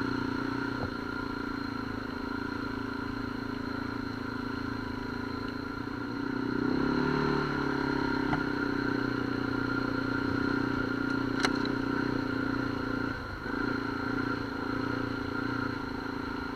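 ATV engine running steadily while riding, picking up for a few seconds about seven seconds in. A single sharp click about two-thirds of the way through.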